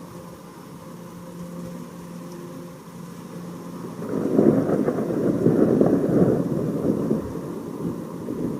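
Thunder rolling in about four seconds in, a loud crackling rumble that lasts a few seconds and then dies away.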